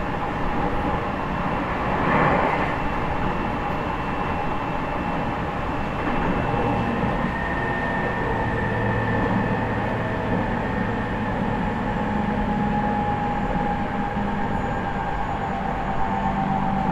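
Running noise inside the motor car of a JR East E501 series electric train (MoHa E501-8, Toshiba IGBT inverter) travelling at line speed, with several steady high tones from the traction equipment over the wheel and rail noise. There is a brief surge of noise about two seconds in.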